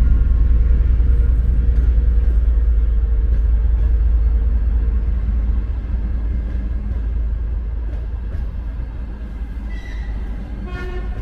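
Departing passenger train rolling along the platform: a deep, continuous rumble of the wheels and cars that fades steadily as the train moves off.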